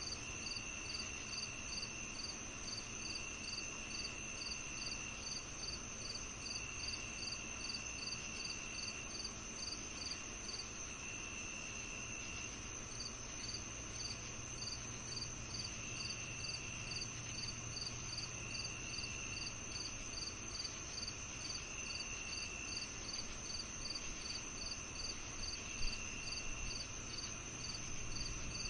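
Chorus of crickets and other insects on a summer evening: a steady high trill, a regular chirp repeating about two to three times a second, and a lower trill that comes and goes in phrases of a second or two. A single short click a few seconds before the end.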